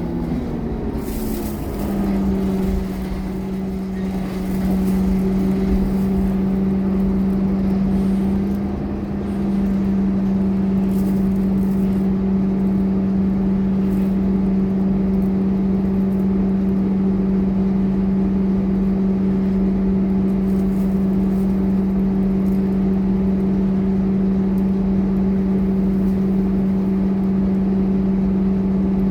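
Scania K230UB bus's five-cylinder diesel engine running with a steady drone. Its pitch drops over the first couple of seconds, then holds even.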